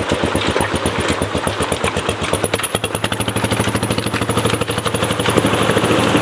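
Kawasaki KLR650's single-cylinder engine running at idle, a rapid, even chug of firing pulses that grows a little louder toward the end.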